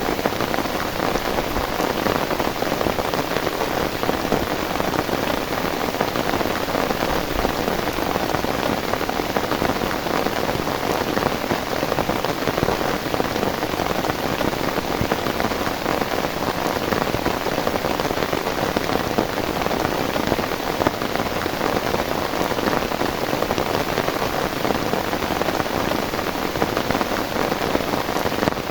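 Heavy rain falling steadily: a dense, even hiss that stays at the same level throughout.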